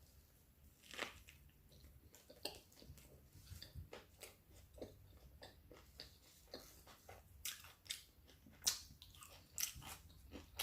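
A person chewing and crunching food, quiet wet mouth sounds with scattered crisp crunches that come more often and louder in the last few seconds.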